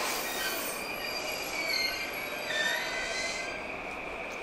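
JR East E233-7000 series electric train braking to a stop, with high-pitched squealing from the wheels and brakes that glides up and down in pitch around the middle.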